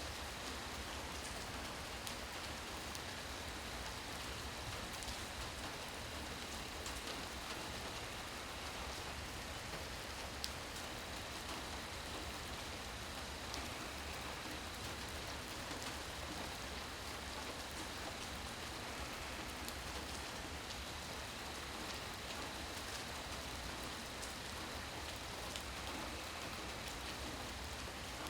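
Steady rain falling, with scattered individual drops ticking on surfaces. A faint steady high tone runs underneath.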